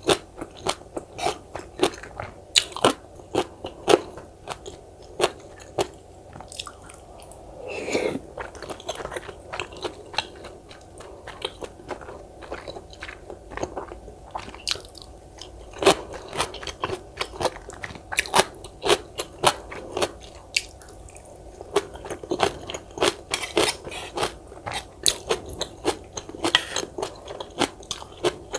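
Close-miked chewing and crunching of cubed radish kimchi (kkakdugi), with many crisp, irregular crunches and wet mouth clicks.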